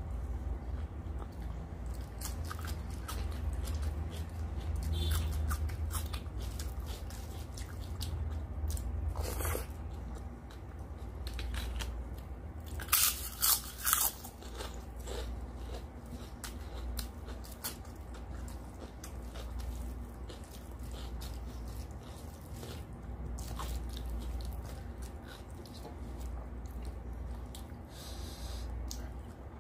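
Close-up chewing of mouthfuls of rice and mutton curry eaten by hand: wet mouth sounds and many small clicks, with a few louder sharp bites about 13 and 14 seconds in.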